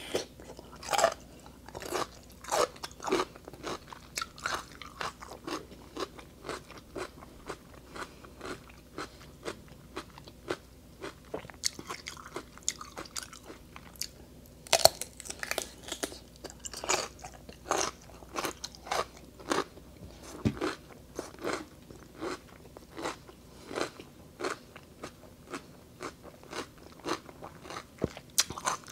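A person biting into and chewing raw cucumber, with crisp, wet crunches. There is a loud bite at the start and another about halfway through, and steady crunching chews of about two a second between them.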